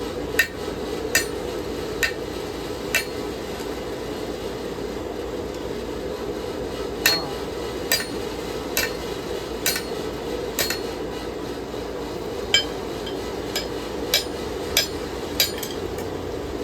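Sharp metallic strikes of steel on the anvil as a hand-forged knife blade is straightened, about fifteen ringing blows in three bursts with pauses between. A steady low hum runs underneath.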